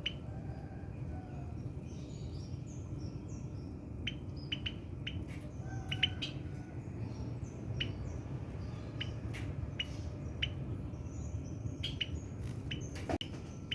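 Scattered short, high bird chirps and faint twittering over a steady low background hum, between the cooing phrases of a spotted dove, which is not cooing here.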